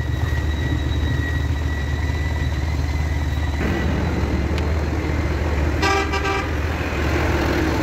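Motor vehicle engine running with a steady low rumble, a thin steady whine over it for the first few seconds, and a single short horn toot about six seconds in.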